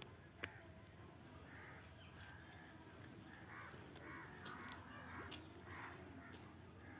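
Faint series of short, harsh bird calls, about half a dozen of them spread over the middle of the stretch, with a single sharp click just under half a second in.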